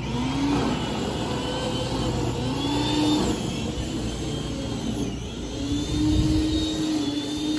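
An engine running, its pitch rising and falling in three surges as it is revved or loaded.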